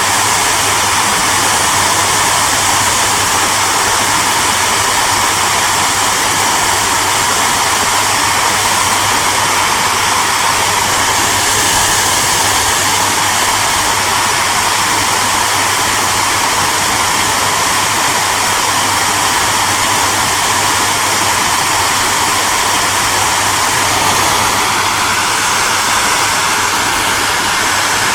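Hair dryer running steadily: a loud, even rushing of air with a low motor hum underneath.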